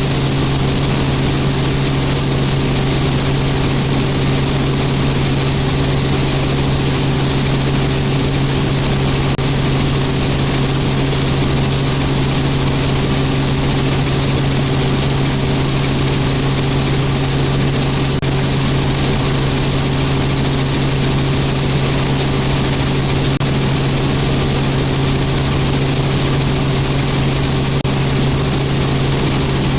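Robinson R44 helicopter in steady flight: a constant drone with an unchanging low hum over a wash of rotor and airflow noise.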